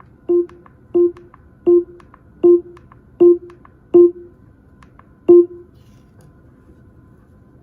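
Short electronic beep from an Amazon Echo (4th Gen) smart speaker, repeated seven times about every three-quarters of a second, each beep louder than the last. This is the pattern of the speaker's volume being stepped up.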